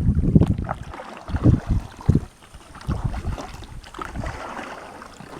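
Wind buffeting the microphone in irregular low gusts, heaviest at first and easing off, out on an inflatable boat on the river.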